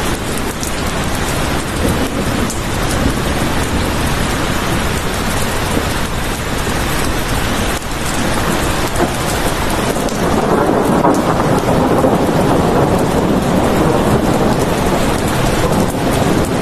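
Heavy rain falling steadily. About ten seconds in, a low rumble swells up underneath it and holds.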